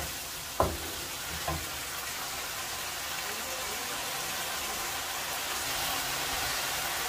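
Chicken in a thick tomato sauce sizzling steadily in a non-stick wok while it cooks, with a wooden spatula stirring and knocking against the pan twice in the first couple of seconds.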